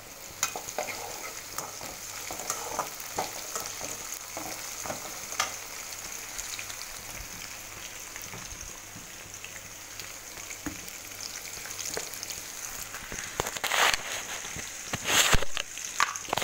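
Diced potatoes and chopped green chillies sizzling in hot oil in a metal wok, a steady hiss. A perforated metal spoon stirs them, scraping and clinking against the pan, with a burst of louder scrapes near the end.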